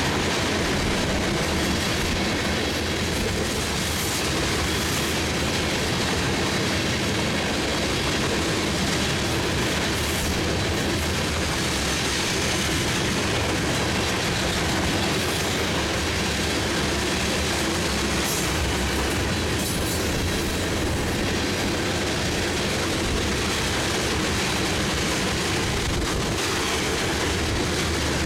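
A long freight train of tank cars rolling steadily past, a continuous rumble and clatter of steel wheels on the rails.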